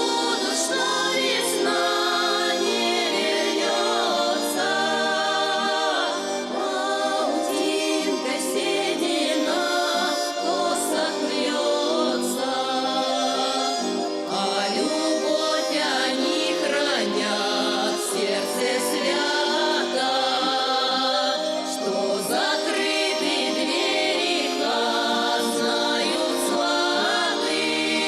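Folk vocal ensemble singing a song in several voices, with instrumental accompaniment.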